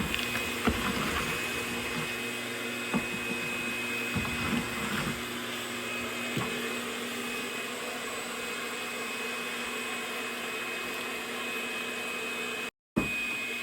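A vacuum machine running with a steady drone, with a few scattered knocks and bumps. It is most likely sucking up ceiling insulation. The sound breaks off briefly near the end.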